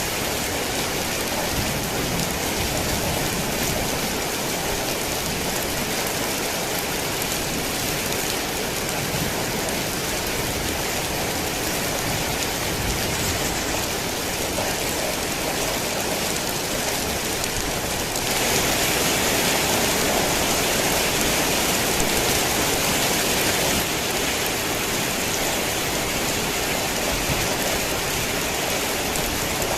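Heavy rain falling steadily, a dense even hiss of drops. It swells louder for about six seconds past the middle, then settles back.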